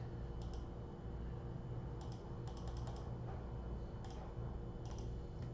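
Keys tapped on a computer keyboard: scattered single clicks and a quick run of about six keystrokes near the middle, over a steady low hum.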